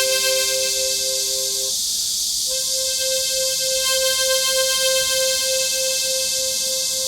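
Harmonica playing a slow hymn melody in long held notes with a fast, even pulsing waver, and a short break for breath about two seconds in. A steady high hiss of cicadas sings behind it.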